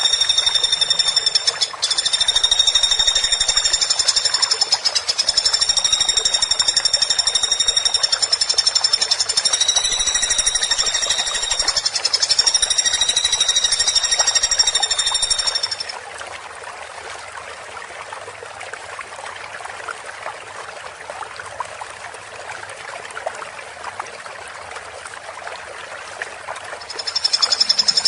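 A woodpecker's rapid, high, rattling call, repeated in long runs; about sixteen seconds in it drops to a quieter stretch of faint fast ticking and hiss, and the loud rattle returns near the end.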